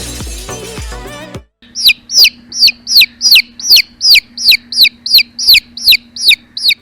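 Background music, then from about two seconds in a chicken chick peeping over and over, about fourteen high peeps that each fall sharply in pitch, close to three a second.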